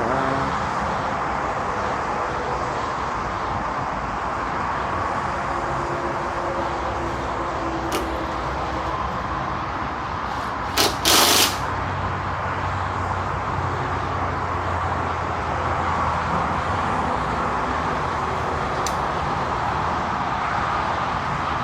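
Steady outdoor vehicle and street background noise, with a short loud hiss about eleven seconds in.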